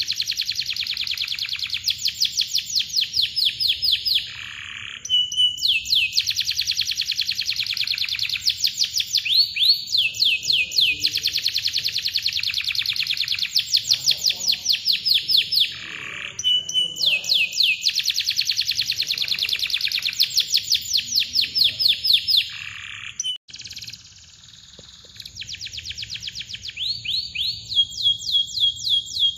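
Domestic canary singing: long, tight trills of rapid high repeated notes, each run lasting several seconds, broken by short pauses and brief chirps.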